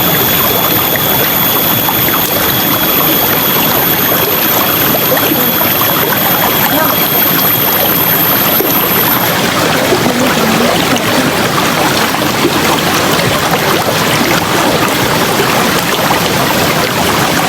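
River water rushing and splashing over rocks, a steady, loud flow.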